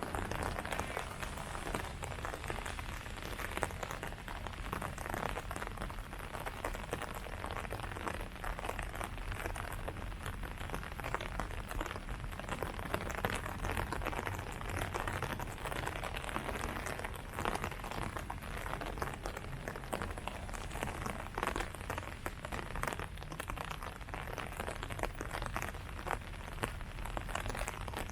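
Steady rain falling on leaves: a continuous hiss made up of many small drop hits.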